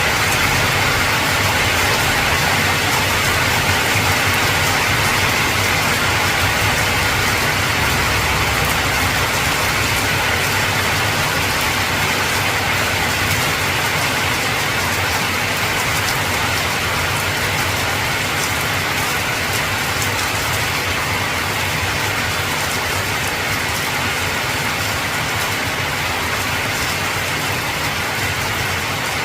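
Heavy rain falling steadily on an old corrugated zinc roof, a dense even patter. A low rumble of thunder sits underneath and fades after the first ten seconds or so.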